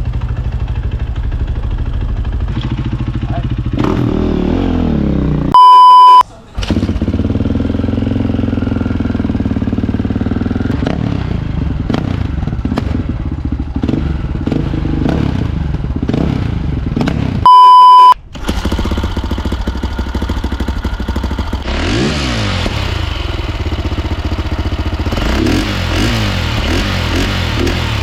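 Motorcycle engine running, its revs rising and falling several times. Two short, loud electronic beeps cut in, one about six seconds in and one about two-thirds of the way through.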